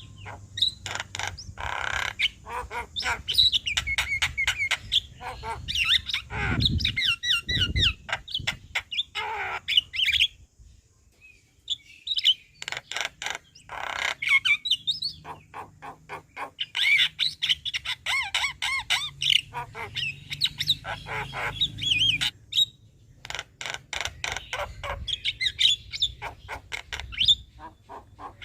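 Javan myna (jalak kebo) singing in long phrases of rapid chattering clicks mixed with whistled notes, with two brief pauses. Two low falling sounds come in the first phrase.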